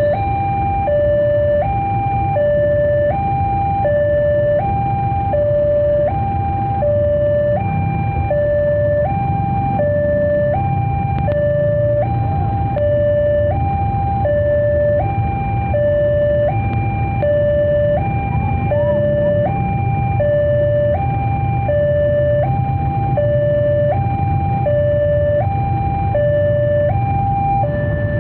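Electronic two-tone warning alarm, typical of an Indonesian railway level crossing, alternating steadily between a high and a low tone about every half second, over the low rumble of a container train rolling slowly past.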